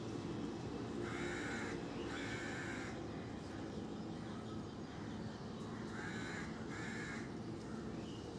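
Four bird calls, in two pairs, each call under a second long, over a steady low background noise.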